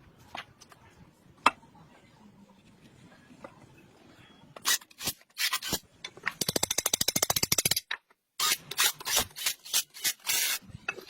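Hand work on metal: a few sharp clicks, then loud short rasping strokes. About six seconds in comes a fast even run of about a dozen strokes a second for a second and a half, followed by more irregular strokes.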